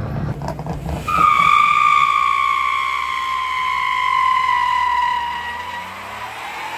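A drag car's rear tyres squealing in a burnout, warming them for the race: a steady high screech that starts about a second in, slides slowly lower in pitch, and fades out after about five seconds.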